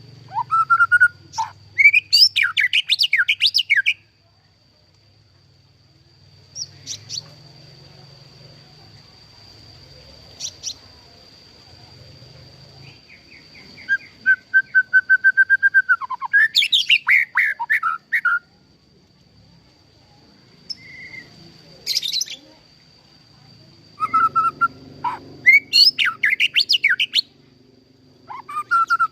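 White-rumped shama (murai batu) singing in loud phrases of rapid, varied whistles and sweeping chattering notes, four bursts with pauses of several seconds between them. A faint steady high-pitched whine runs under the quieter middle stretch.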